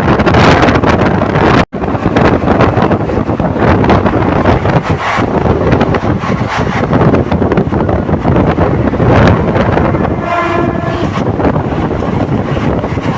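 Loud, steady running noise of a moving passenger train, with a short horn blast about ten seconds in. The sound cuts out for an instant a little under two seconds in.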